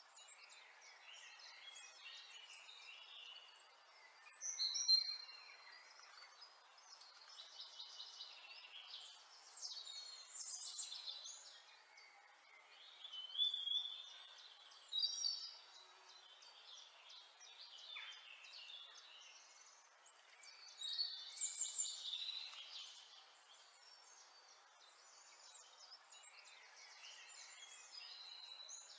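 Songbirds chirping and twittering in short, quick, high calls, with louder clusters of song every few seconds.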